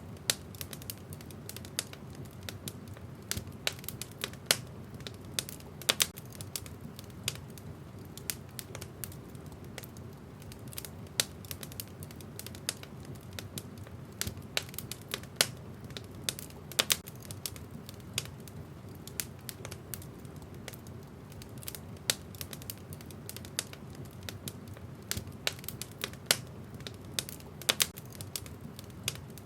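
Wood fire burning in a fireplace: irregular sharp crackles and pops of burning logs, several a second, over a steady low rumble of the flames.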